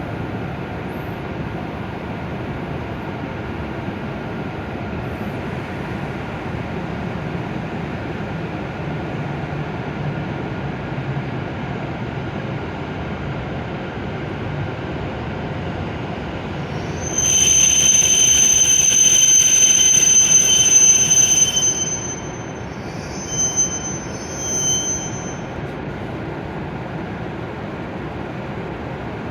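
W7 series Shinkansen train rolling slowly into the platform with a steady low rumble. About seventeen seconds in, a loud high-pitched brake squeal sounds for about five seconds, followed by two short squeals as the train draws to a stop.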